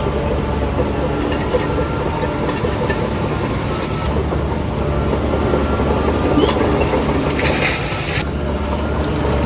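Bulldozer's diesel engine running steadily under the clatter of its steel crawler tracks, with a short hiss of air about three quarters of the way through.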